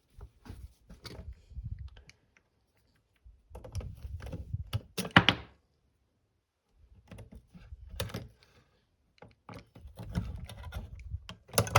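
Irregular plastic clicks, knocks and rubbing as corroded, leaked batteries are worked loose from a radio's battery compartment. The batteries are stuck in place by the leaked corrosion. The sharpest click comes about five seconds in.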